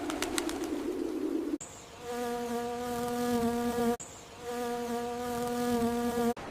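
A rough, low buzz that cuts off abruptly about a second and a half in, followed by two separate stretches of a steady, even-pitched buzzing hum, each about two seconds long.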